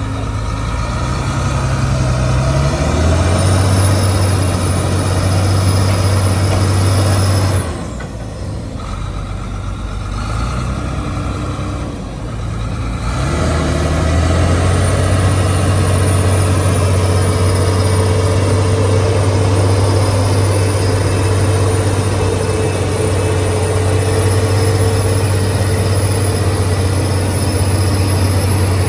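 Heavy diesel engine of an earthmoving machine working under load. It revs up a few seconds in with a high whine over it, eases off for about five seconds, then revs up again and holds steady.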